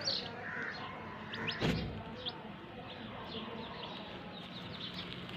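Domestic chicks peeping: a few clear, falling peeps in the first two seconds, then many fainter peeps overlapping. One dull thump just under two seconds in.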